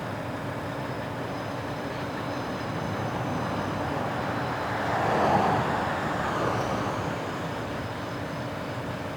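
Freight train rolling past on the track, a steady rumble of wagons that swells to its loudest about five seconds in and then eases.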